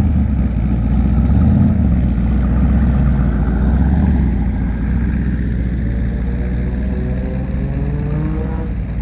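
Car engine running with a deep rumble, its pitch climbing slowly over the second half and falling away near the end.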